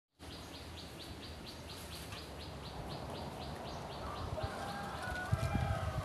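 Bird calls: a rapid series of short, high ticking notes, about four a second, that fade out after about four seconds, followed by a lower tonal call with a few dull low thumps near the end.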